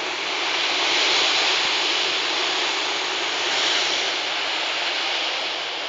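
Big waves breaking on a rocky shore: a steady rush of surf and spray that swells about a second in and again a little past the middle.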